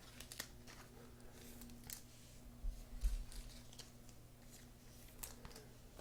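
Faint scattered clicks and rustles of trading cards and pack wrappers being handled, over a low steady hum.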